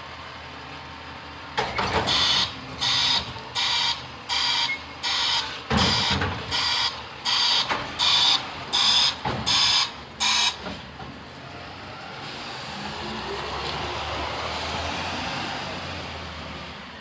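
A garbage truck's warning beeper sounds in a steady series, about two beeps a second for some nine seconds, with a low thump partway through. Then the truck's engine swells and fades as it moves off.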